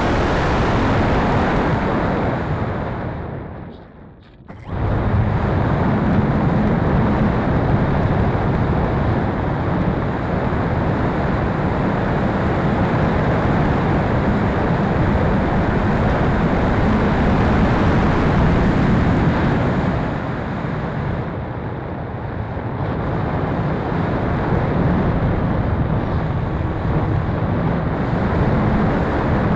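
Wind rushing and buffeting over the microphone as a loud, steady noise, dropping away briefly about four seconds in.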